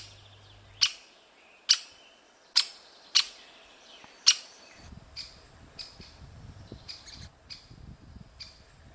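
Great spotted woodpeckers calling at the nest hole: six loud, sharp single notes less than a second apart, then quicker, fainter calls from about five seconds in, the young woodpeckers begging as they are fed.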